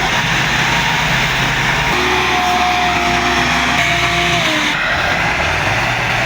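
Tractor diesel engine running hard under load. A steady whining tone joins it about two seconds in and slides down and stops just before five seconds in.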